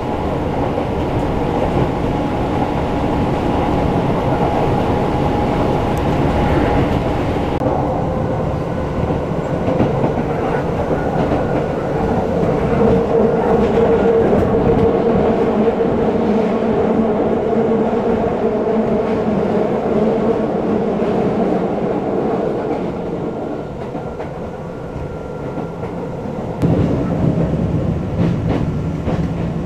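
Ride noise inside a Keisei 3400 series electric commuter train on the move: wheel and rail-joint clatter with a steady traction-motor hum. The sound changes abruptly twice, about a quarter of the way in and near the end.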